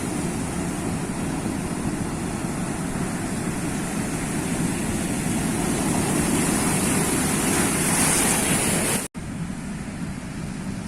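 Sea waves washing onto the shore, a steady rushing that swells louder about eight seconds in. Just after nine seconds it breaks off for an instant and comes back as a quieter, steadier wash.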